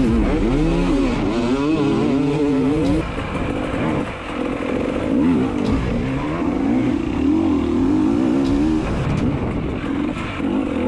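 Dirt bike engine running on a trail ride, its pitch rising and falling over and over with the throttle, easing off briefly about three seconds in.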